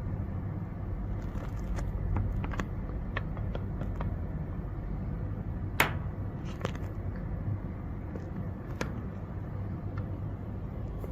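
Light clicks and taps of test leads and connectors being handled and plugged in, with one sharper click about six seconds in, over a steady low hum.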